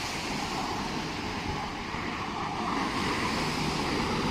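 Class 321 electric multiple unit pulling out of the station, a steady rush of wheels and running gear that slowly grows louder.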